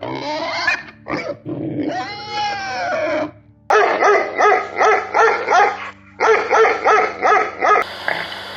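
Animal calling: drawn-out whining, squealing cries that bend in pitch, then two fast runs of short barks or grunts at about five a second. Near the end the calls cut off into a steady hiss.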